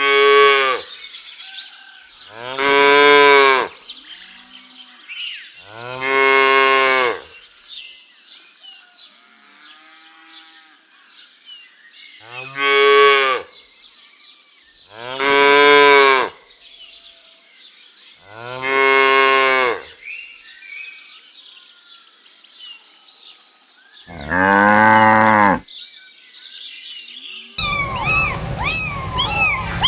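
Cattle mooing: about seven long, loud moos a few seconds apart, with faint bird chirps between them.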